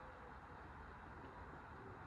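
Near silence: faint steady background rumble and hiss, with no distinct event.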